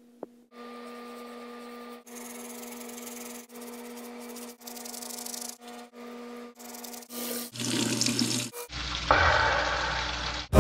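Bathroom tap running into the sink with a steady rushing, cut off and restarting several times in short takes, along with manual toothbrush brushing. Over the last few seconds the water sound becomes louder and rougher as the mouth is rinsed straight from the tap.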